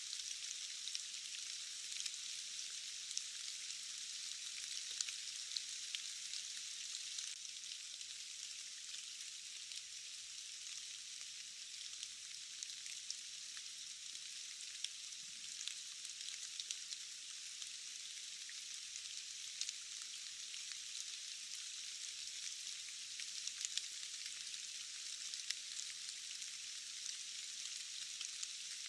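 Steady rain falling: a constant high hiss with many scattered sharp drop ticks.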